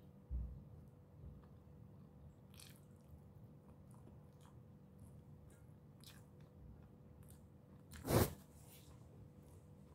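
Close-miked chewing and soft mouth clicks of a person eating rice and chicken tocino with her fingers. One brief louder knock about eight seconds in.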